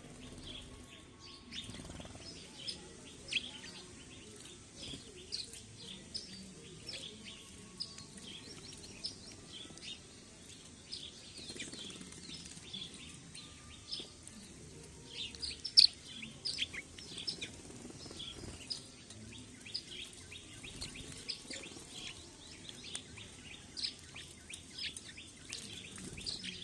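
A flock of small birds chirping continuously in quick short calls, with one sharp tap about halfway through.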